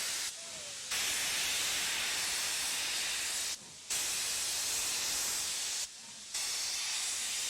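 Steam locomotive hissing off steam, a steady high hiss broken by three short gaps.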